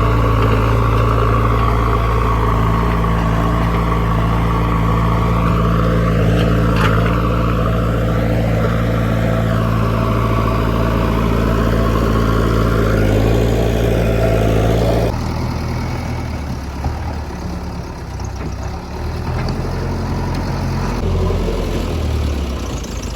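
Diesel engine of a JCB 3DX backhoe loader running steadily. About 15 seconds in, the sound changes abruptly to a quieter, more uneven engine sound.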